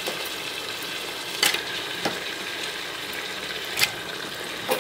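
A pot of onion-tomato masala sizzling steadily as raw chicken pieces are added to it. A metal spoon clicks sharply against the pot four times.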